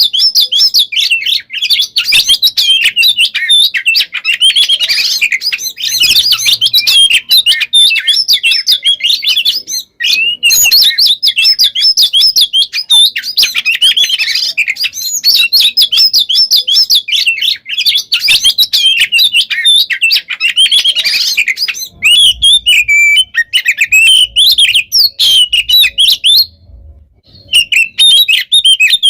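Oriental magpie-robin (kacer) singing a fast, dense, almost nonstop song of rapid trills and loud, sharp whistled notes. The song breaks off briefly about a third of the way in and again near the end.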